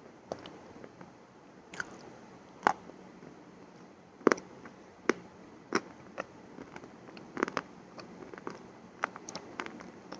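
Crunchy food being bitten and chewed close to the microphone: irregular sharp crunches, about one or two a second, the loudest about four seconds in.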